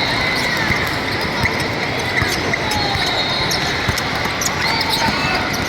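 Basketball bouncing on a hardwood gym floor amid the noise of play, with scattered short sneaker squeaks and a steady hubbub in the hall.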